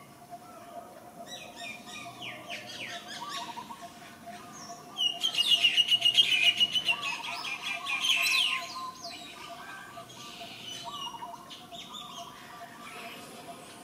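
Birds chirping and calling, with a loud, rapid, high chattering trill from about five to nine seconds in.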